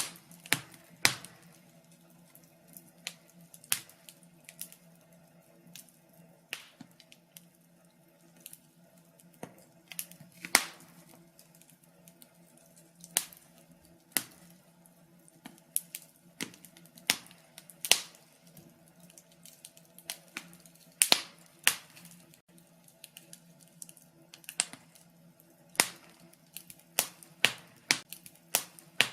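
Wood fire crackling in a fireplace: irregular sharp pops and snaps, sometimes in quick clusters of two or three, over a faint steady low hum.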